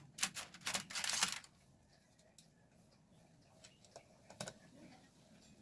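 A quick run of sharp clicks and rattles from small parts or tools being handled, then a few faint single clicks about four seconds in.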